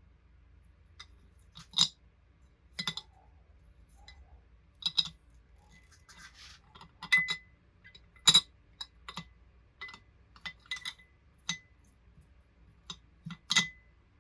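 Small hard parts clinking and tapping against a container in scattered sharp clinks, a dozen or so. Several of the clinks leave a brief ringing note.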